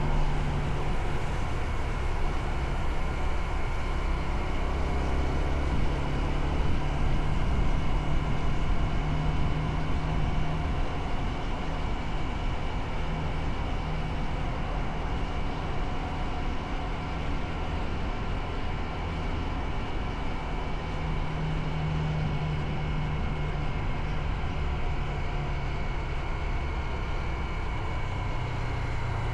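Motorcycle engine running while riding, its low note strengthening and fading as the rider's speed changes, under a steady rushing noise.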